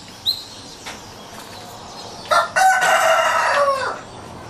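A rooster crows once, about two seconds in: a single call of roughly a second and a half that drops in pitch at the end. A small bird chirps briefly near the start.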